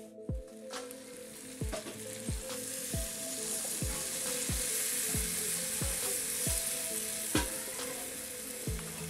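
Chicken curry sizzling in a karahi over a wood-fired mud stove, with a few sharp clinks of the ladle against the pan. Background music with a steady low drum beat plays over it.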